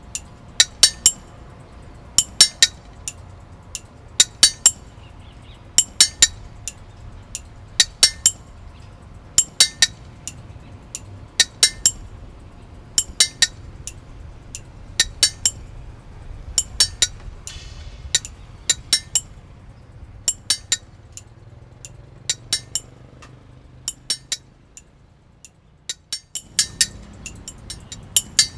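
Small hard objects clinking, two or three bright ringing strikes at a time, the groups repeating about every two seconds over a low steady hum. The hum drops away for a moment near the end before the clinking carries on.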